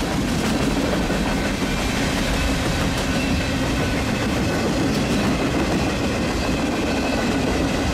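Freight cars of a mixed freight train rolling past close at speed: a steady rumble and clatter of steel wheels on the rails, with faint high-pitched ringing over it.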